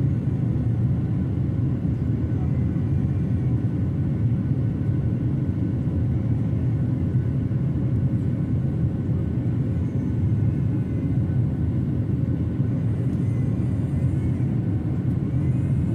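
Boeing 737-800 with CFM56-7B engines in flight: the engines and airflow make a steady low rumble with a few faint steady tones above it.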